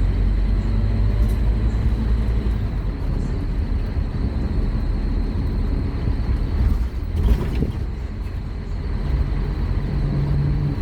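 Scania K230UB Omnilink bus's five-cylinder diesel engine running under way, a heavy steady rumble. There is a brief louder knock or rattle about seven seconds in, and a steadier engine note comes in near the end.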